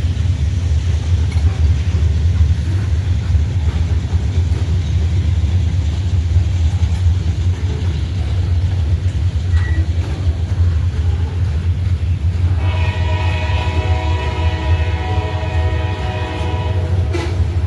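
Train rumbling steadily; about twelve seconds in, a locomotive air horn sounds one long blast of about five seconds, several notes at once, that cuts off sharply.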